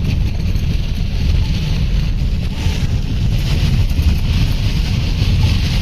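Heavy typhoon rain and wind on a moving car, heard from inside the cabin: a steady loud low rumble of wind buffeting and tyres on the flooded road, with a hiss of rain and spray over it.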